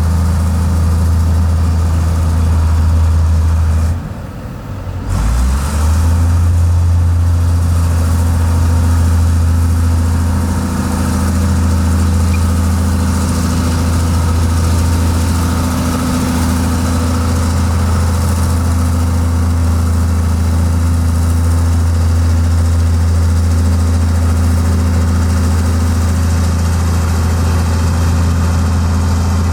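Heavy diesel engine of earthmoving machinery running steadily. It drops away briefly about four seconds in and comes back with a short rise.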